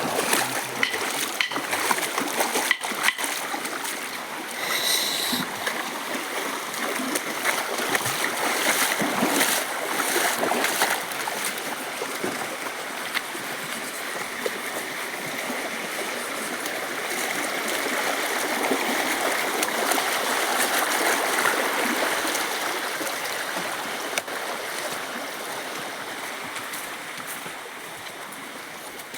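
Stream water running, with irregular splashing through roughly the first half.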